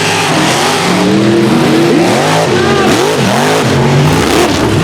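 Supercharged (blower) mega truck engines revving hard and unevenly, their pitch swinging up and down over and over as the drivers work the throttle through the mud course.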